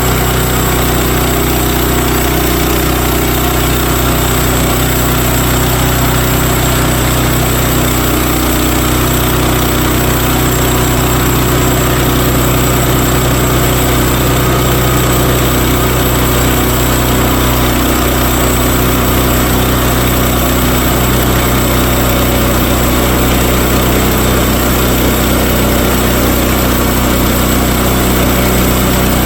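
Woodland Mills HM130Max sawmill's gasoline engine running steadily, with the band saw blade working through a log.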